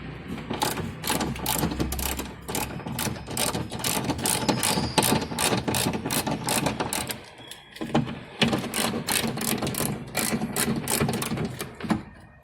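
Ratchet tool clicking in quick, even strokes, about four a second, as fasteners are backed out. It stops briefly a little after the middle, then resumes.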